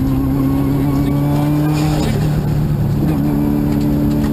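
Subaru WRX's turbocharged flat-four engine pulling hard, heard from inside the cabin, its pitch rising slowly. About two seconds in the note drops away briefly, then picks up and climbs again a second later.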